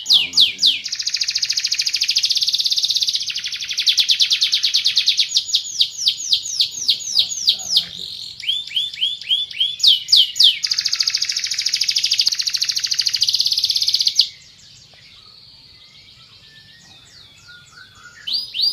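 Domestic canary singing a long, loud song of rapid trills and repeated sweeping notes, breaking off about fourteen seconds in and starting again near the end.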